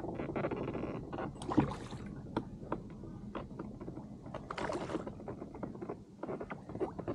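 Water splashing and irregular knocks and clatter against a kayak as a hooked callop is brought alongside and lifted aboard by hand, with two louder splashy swells.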